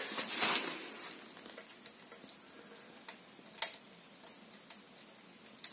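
Firewood crackling in the firebox of a freshly lit cast-iron stove-fireplace that is burning actively: scattered, irregular sharp pops, the loudest a little past halfway, over a faint hiss.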